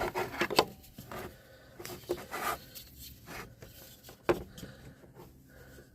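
Jump starter cable clamp being handled and clipped onto a car battery terminal: scattered rubbing and scraping with short clicks, the sharpest about four seconds in.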